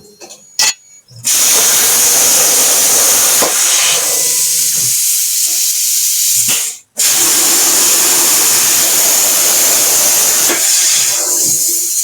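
CNC plasma cutter torch on a Langmuir Crossfire Pro table cutting steel with a loud, steady hiss. A click comes first, then the hiss starts. It stops abruptly about seven seconds in, as the torch shuts off between cuts, and starts again a moment later.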